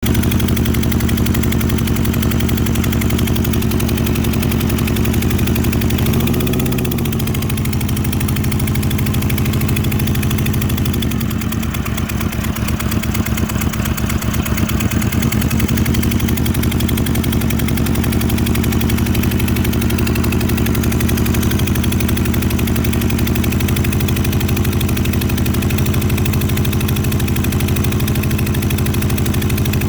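Motorcycle engine idling steadily, with a brief rise and fall in revs about six seconds in and a few seconds of rougher, uneven running soon after. The engine has a suspected cylinder misfire.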